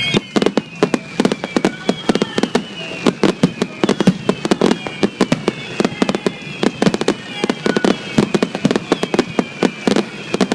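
Fireworks going off in rapid succession: many sharp bangs and crackles, several a second, with faint whistles slowly falling in pitch.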